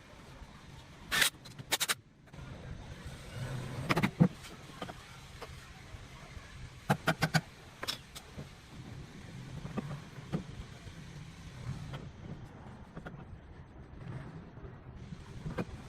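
Scattered sharp clicks and knocks, with a quick cluster of them about seven seconds in, over a low steady hum that starts a couple of seconds in.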